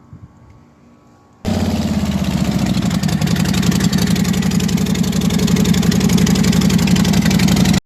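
A vehicle engine, most likely a truck's, running at idle, loud, with a fast and even firing pulse. It comes in suddenly about a second and a half in and cuts off just before the end.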